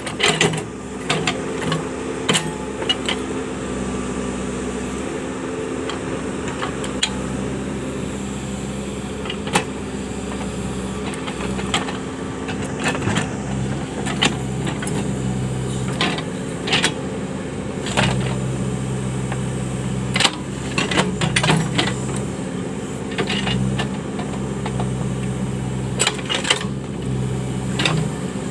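Case 580 backhoe loader's diesel engine running under working load, its pitch and level shifting in steps, with frequent short sharp knocks and clanks.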